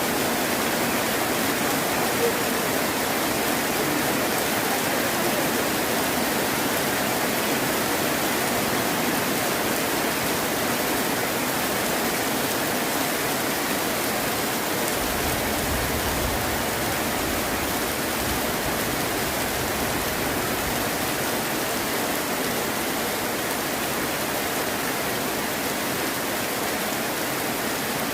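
Heavy rain falling steadily, an even hiss. A low rumble of thunder comes in for several seconds about halfway through.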